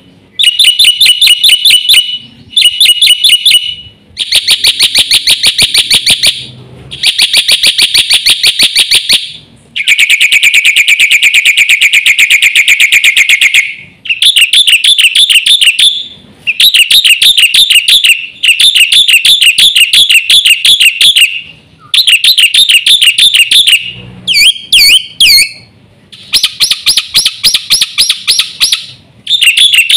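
Black-winged myna (jalak putih) singing loudly in a long series of rapid rattling, trilled phrases, each a second or a few seconds long, separated by short pauses.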